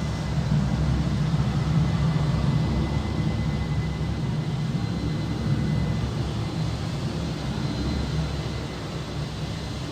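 Outdoor city ambience dominated by a steady low engine rumble of passing traffic or a distant aircraft, with a fainter high hiss over it.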